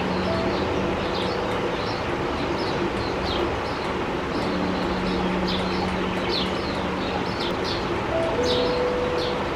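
Sparrows chirping: short, high chirps come a few times each second, over a steady background hum and rush.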